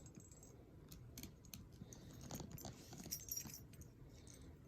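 Faint scattered clicks and light clinks of a leather handbag's hardware as the bag is handled.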